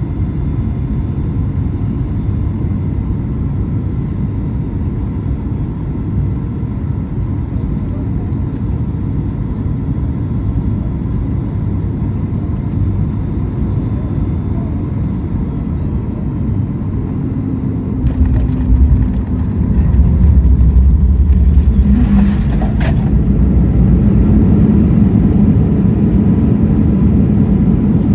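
Cabin noise of a Boeing 737 MAX 8 on final approach, a steady low rumble. About two-thirds of the way through, the main wheels touch down with a few thumps, and a louder rumble follows as the jet rolls out and slows on the runway.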